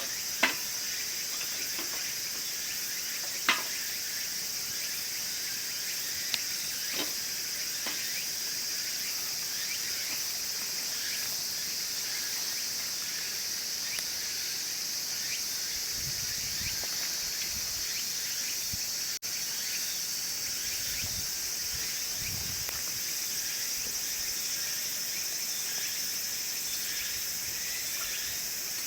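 A steady, high-pitched chorus of crickets and other insects, with the wood fire in a wood stove popping sharply a few times in the first seven seconds, loudest about half a second and three and a half seconds in.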